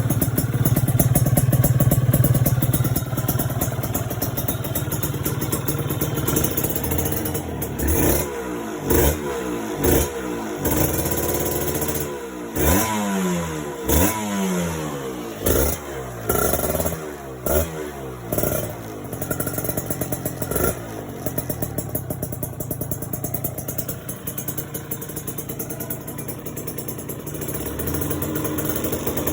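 Kawasaki Ninja RR 150's two-stroke single-cylinder engine breathing through an aftermarket Perfect Power exhaust. It idles, is blipped repeatedly in short revs through the middle, and settles back to idle.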